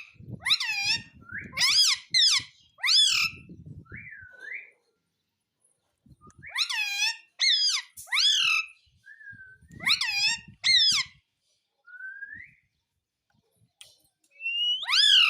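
Pet parrot calling: about a dozen short, shrill squawks and whistles that swoop up and down in pitch, coming in clusters with short pauses between.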